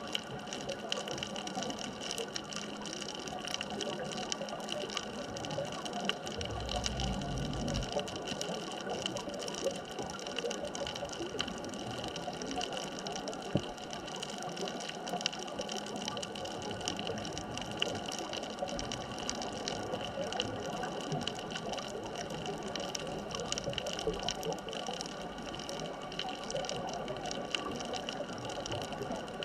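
Underwater ambience picked up through a camera housing: a steady hiss with a constant faint hum and fine crackling clicks throughout. A brief low rumble comes about seven seconds in.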